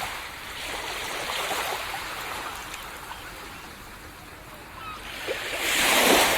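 Sea waves washing onto a beach: a steady wash of surf that fades a little in the middle, then a wave breaks with a louder rush near the end.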